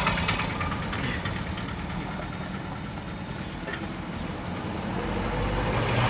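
Steady low rumble of a running vehicle engine, with a deeper hum building near the end.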